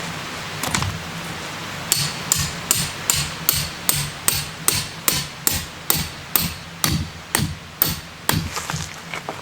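Hammer driving a tent peg into the ground: a steady run of sharp blows, about two and a half a second, starting about two seconds in and stopping near the end, after one earlier single knock.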